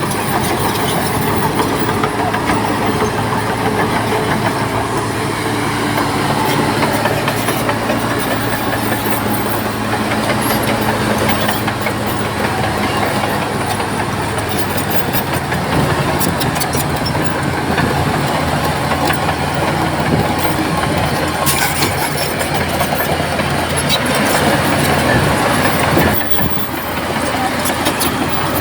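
Crawler bulldozer's diesel engine running steadily while pushing soil, with the occasional clank of its steel tracks.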